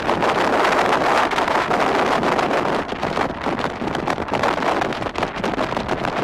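Strong wind buffeting the microphone, a loud rushing noise that gusts up and down unevenly.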